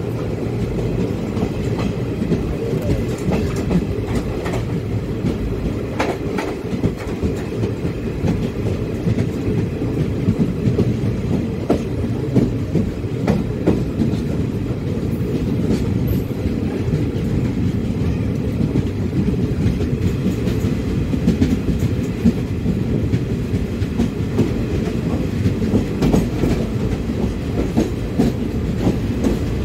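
Passenger train running, its wheels rumbling steadily on the rails with scattered clicks and clatter over rail joints, heard from an open coach doorway.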